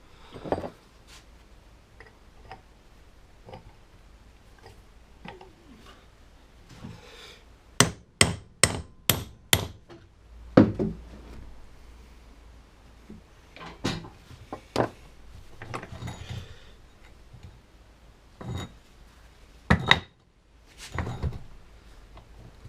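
Hammer blows on metal against a seized rear wheel hub and bearing race: single strikes spread out, with a quick run of five blows about eight seconds in.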